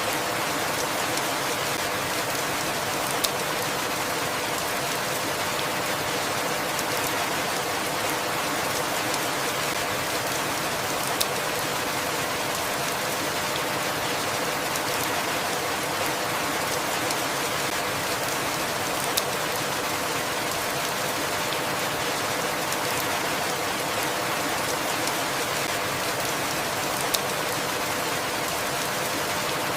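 Steady rainfall, an even hiss of many drops, with a sharper single drop tick about every eight seconds.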